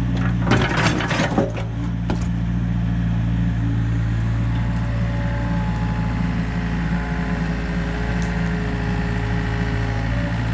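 Heavy diesel engine of an excavator running steadily, with a short burst of clunks and scraping in the first two seconds as broken concrete slabs are handled.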